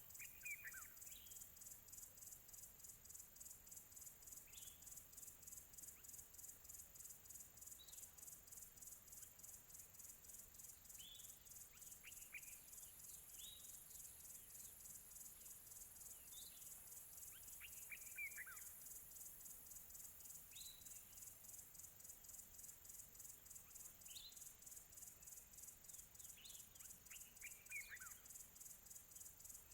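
Crickets chirping faintly in a steady pulsing trill, with birds calling now and then in short falling notes; the clearest bird calls come just after the start, midway and near the end.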